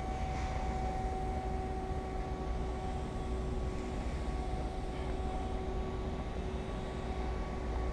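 Steady low machine drone with a few held tones and an even background hiss, unchanging throughout.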